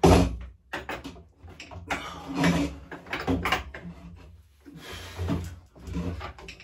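A chair being moved and things being shifted about: a loud knock at the start, then irregular clunks, knocks and scrapes.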